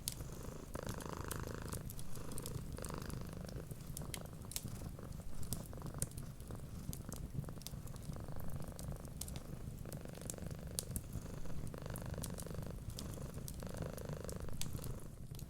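Domestic cat purring steadily and close, its purr swelling with each breath about every couple of seconds, over the scattered sharp pops and crackles of a wood fire.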